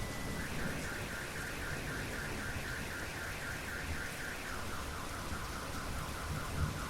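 Steady rain with a car alarm sounding over it: a fast warbling tone begins about half a second in and drops to a lower warble a little past halfway.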